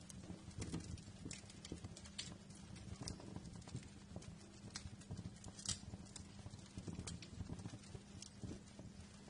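Wood fire crackling in a fireplace: irregular sharp pops and snaps over the low, soft rustle of the burning logs.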